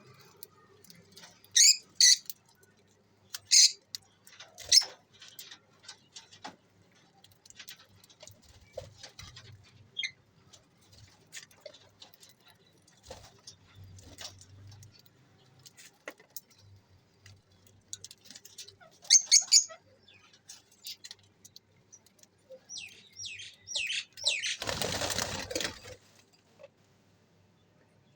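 Pet lovebirds giving short, sharp, high-pitched chirps in a few scattered clusters, with faint small clicks between them. About 25 s in comes a flurry of wing flapping lasting about two seconds.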